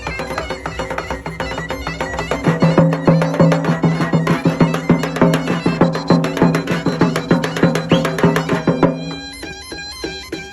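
Black Sea horon folk music: fast, driving dance-tune playing over a steady low drone. The drone and the fuller sound drop out about nine seconds in.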